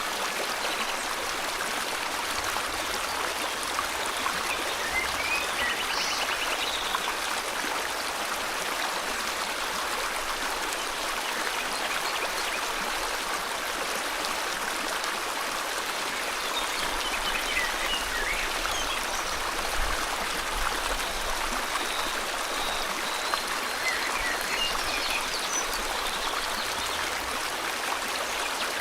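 River water flowing in a steady rush, with brief bird chirps now and then.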